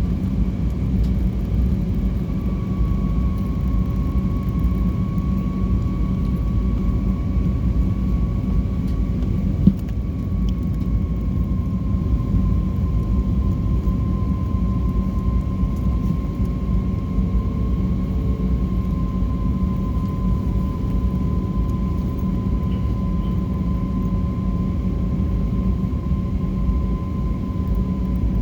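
Jet airliner engines heard from inside the passenger cabin: a steady low rumble with a thin whine that slowly sinks a little in pitch. A single short click about ten seconds in.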